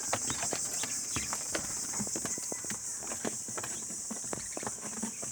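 Japanese quail pecking at black soldier fly larvae: a quick, irregular run of sharp beak taps, over a steady high hiss.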